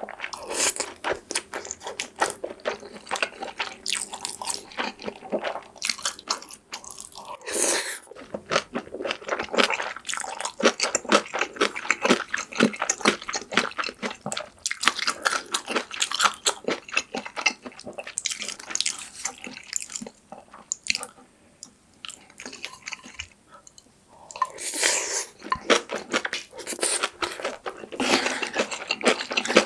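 Close-miked chewing of Spam and braised kimchi: wet, smacking mouth sounds with irregular clicks, easing off into a quieter stretch about two-thirds of the way through.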